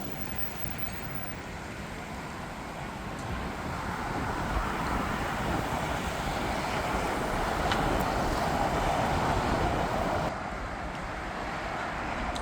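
Jet airliner engine noise, a steady rush that builds for several seconds and then drops suddenly about ten seconds in.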